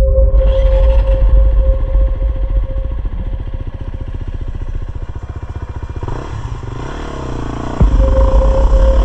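Honda CRF250RX dirt bike's single-cylinder four-stroke engine running under way, loud and rough. The engine eases off past the middle and picks up again after a sharp knock near the end.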